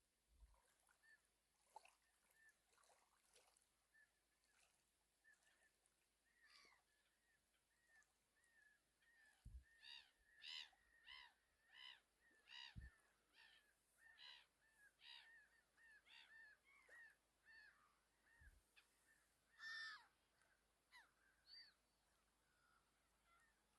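Faint distant birds calling: scattered short calls, then a run of repeated short calls about two a second through the middle, with a few more calls near the end.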